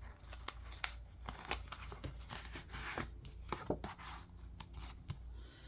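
Faint rustling and crinkling of paper bills and envelopes being handled, with scattered light taps and clicks.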